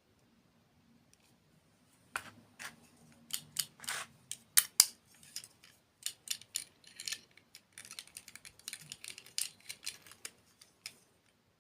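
Close-miked crunching of crisp dessert food being bitten and chewed: a dense run of sharp crunches starting about two seconds in and stopping shortly before the end.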